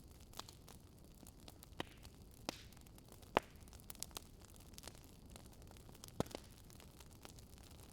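Wood fire crackling: scattered sharp pops at uneven intervals over a faint steady hiss, the loudest pops about three and a half seconds and six seconds in.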